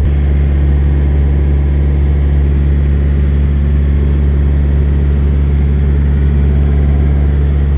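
A large engine idling: a steady low drone that does not change.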